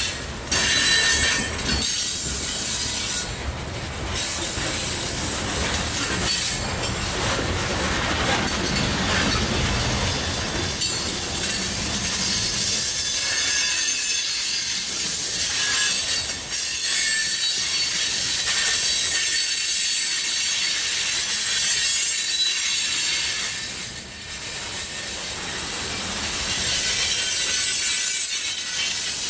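A loaded coal train's cars rolling past on the rails, with steady wheel and flange squeal and hiss over the rumble of the wheels. The low rumble fades about twelve seconds in, leaving mostly the high squeal and hiss.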